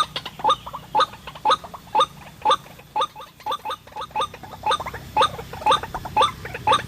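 White-breasted waterhen (ruak-ruak) calls: short rising notes repeated evenly about twice a second, the bird's territorial call used as a trapping lure.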